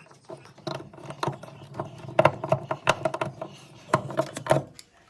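Light, irregular taps and knocks of cardboard and wooden pieces being handled and fitted together, several in quick succession, busiest in the middle and just before the end.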